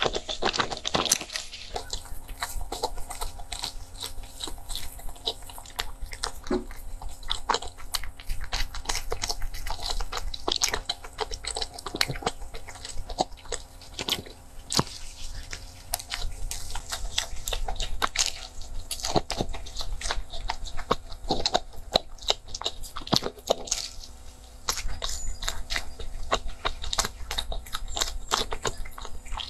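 Close-miked chewing and biting of a pork-floss and purple-rice mochi pastry: many soft, irregular mouth clicks and crumbly crunches, over a faint steady hum.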